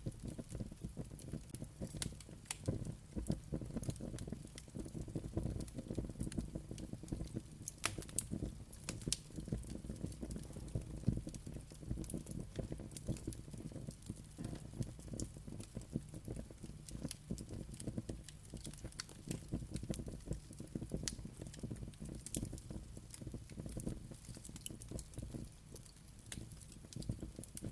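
Wood fire crackling: dense, irregular pops and snaps over a low, steady rumble of the flames.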